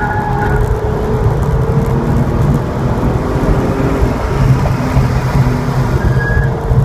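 Porsche 911's flat-six engine pulling hard along a straight, climbing to about 5,000 rpm, then easing off a little near the end as the car slows for a turn; heard from inside the cabin.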